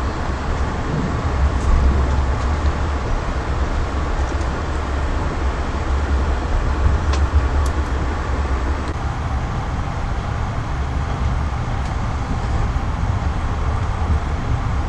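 Steady low rumble of a moving vehicle, with a couple of faint clicks about seven seconds in.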